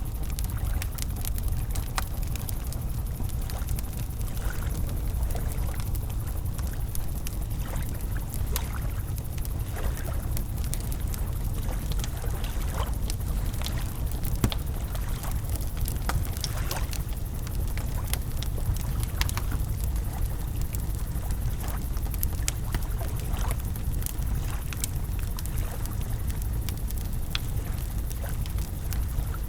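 Wood campfire crackling, with frequent sharp pops and snaps scattered irregularly, over a steady rush of flowing river water.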